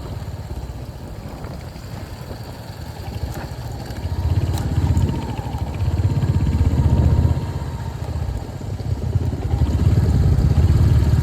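Royal Enfield Hunter 350's single-cylinder engine running under way, the exhaust note swelling louder with the throttle a few times.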